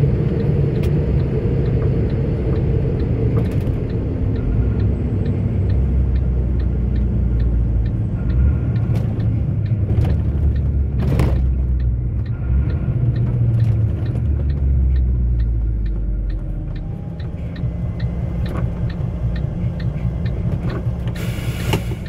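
Inside the cab of a 44-ton articulated truck on the move: the diesel engine's low drone and road noise. A light ticking runs at about two a second for most of it. The engine note drops about two-thirds of the way through, and there is a short hiss near the end.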